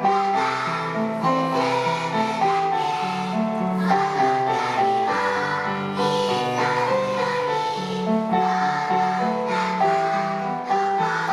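A group of young children singing a song together over accompanying music.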